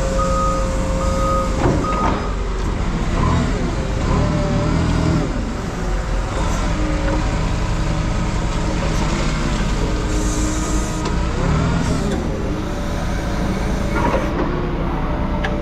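Heavy diesel machine running steadily with a wavering whine rising and falling over it. A backup alarm beeps during the first couple of seconds.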